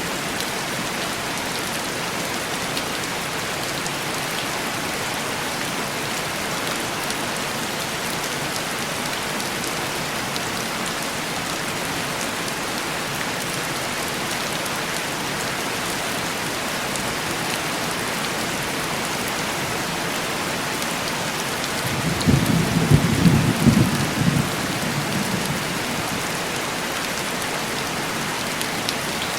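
Steady heavy rain pattering on window glass, with a roll of thunder rumbling up about 22 seconds in and dying away over three or four seconds.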